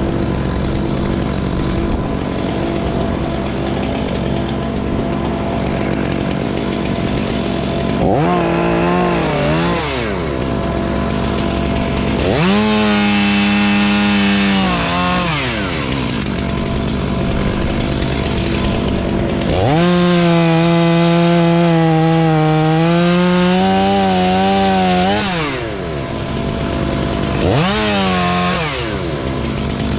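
A chainsaw idling and revving up four times. Two short blips frame two longer runs at high speed, whose pitch sags as the chain bites into the wood before the saw drops back to idle.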